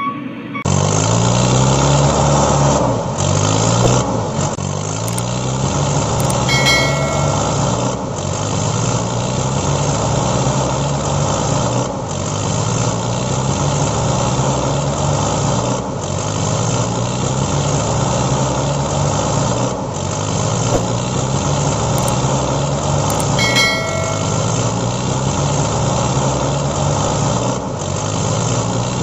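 Dubbed engine sound effect of a truck or tractor engine running, a short recording looped so that it repeats about every four seconds. Brief high chirping tones come in twice, about seven seconds in and near the end.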